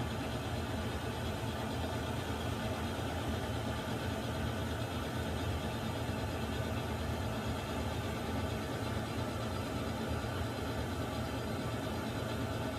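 Water heater running, a steady low hum and rush that doesn't change.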